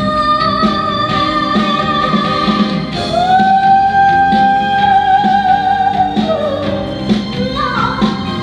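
Trot song performed live: a female voice sings and holds one long note with vibrato, over a band backing with a steady beat.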